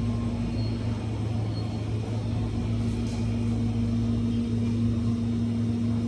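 Steady low drone of a running vehicle: an even rumble with a constant low hum and a second, higher hum above it.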